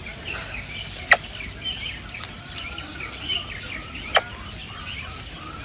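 Small birds chirping and calling in a busy chorus of short notes, with two louder, sharper calls, one about a second in and one about four seconds in.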